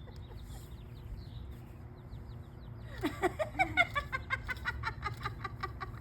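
Young chickens calling: faint, short, high peeps in the first half, then about halfway through a quick run of chirping clucks, roughly four or five a second.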